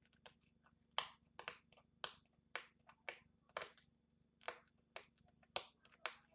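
A run of short, sharp clicks and crinkles, about two a second, from packaging and parts being handled during an unboxing.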